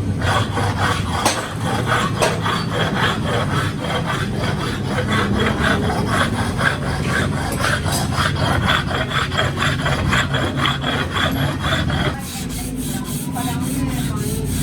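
Rhythmic rasping strokes, like a file or scraper worked quickly back and forth, several strokes a second. About twelve seconds in the strokes die away and a steadier low hum remains.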